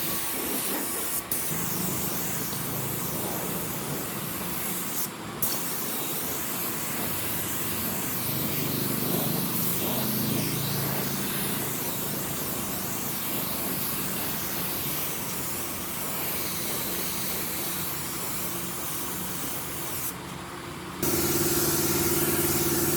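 A steady hiss of rushing air, like compressed air or spraying, broken briefly three times. Near the end it stops for about a second, and a steady low hum takes over.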